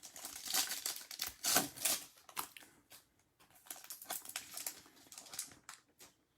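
Stiff trading cards being flipped and slid one behind another in the hands: a quick, irregular run of crisp clicks and papery swishes.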